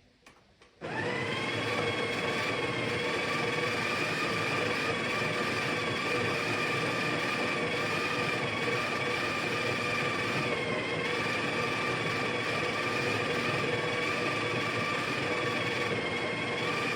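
Breville espresso machine's built-in coffee grinder running, grinding a dose of coffee beans. It starts about a second in with a steady whine that sags briefly in pitch about two-thirds of the way through, and it stops right at the end.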